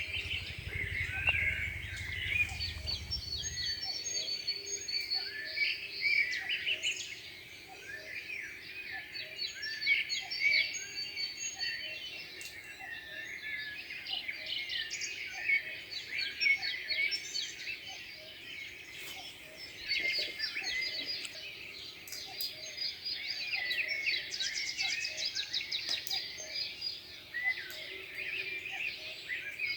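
Many birds singing and chirping at once, their short calls and trills overlapping continuously, with a low rumble during the first few seconds.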